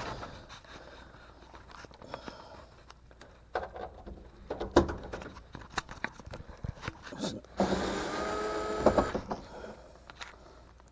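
Scattered metallic clicks and taps of screws and a panel being handled, then about a second and a half of steady whirring from a cordless drill-driver backing out a screw on a dryer's inner panel.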